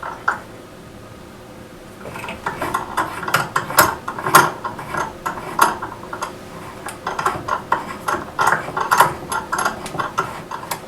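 Irregular metallic clinks and light scrapes of small steel parts and hand tools being handled: sharp ticks coming in quick clusters from about two seconds in.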